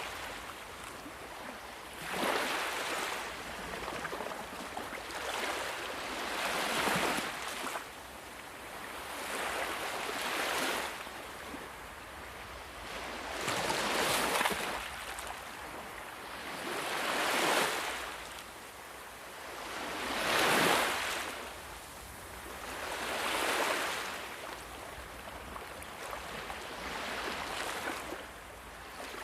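Sea waves washing onto a shore, each swell of surf building and falling away about every three to four seconds.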